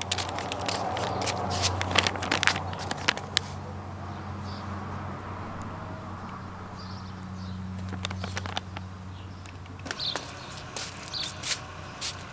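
A steady low hum with scattered clicks and knocks; the hum stops about ten seconds in.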